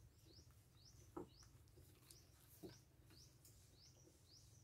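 Near silence, with a faint bird chirp repeating about twice a second, each a short high rising note. A brief soft sound comes about a second in and another a little before three seconds.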